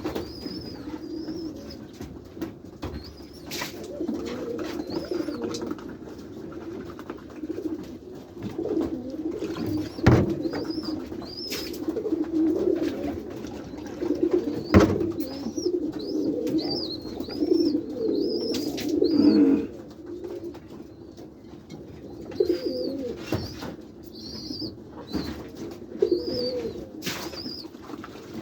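A flock of domestic white pigeons cooing together in a loft, a steady overlapping warble. Repeated short high chirps run over it, with a few sharp knocks scattered through.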